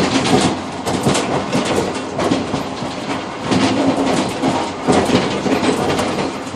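Passenger train running along the line, heard from inside the rear cab vestibule of its tail car: a steady rumble of the running gear with frequent irregular knocks and rattles as the wheels pass over the track.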